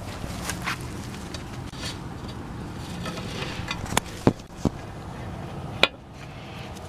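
Four sharp knocks or clicks, three close together about four seconds in and one near six seconds, over a steady low background noise.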